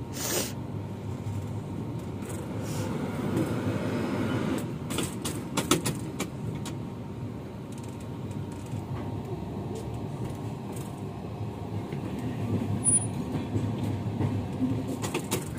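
Passenger train running: a steady rumble of the moving coach heard from inside, with a few short clicks.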